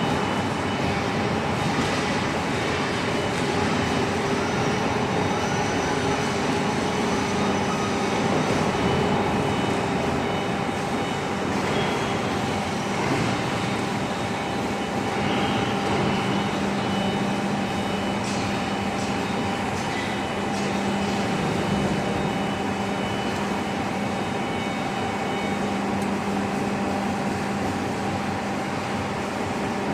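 Hydraulic power unit of a CNC profile bending machine running steadily, a constant motor-and-pump hum with a low tone over machine noise.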